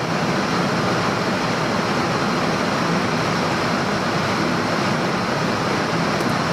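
Steady rushing noise of air and engines on a Boeing 747 flight deck in cruise, an even hiss over a low rumble.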